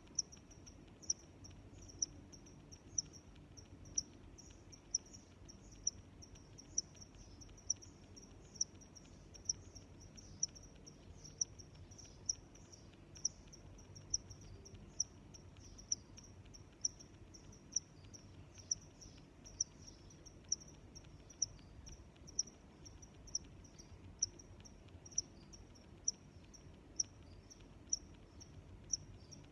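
Crickets chirping, with one loud short chirp about once a second and fainter chirps in between.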